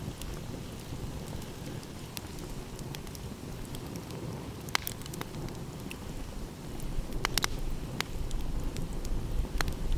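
Wood fire crackling, with scattered sharp pops that come thicker about three-quarters of the way through, over a steady low rumble of wind and waves.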